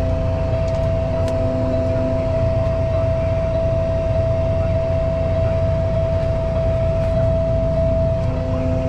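Truck engine idling: a steady low rumble with a constant whine above it.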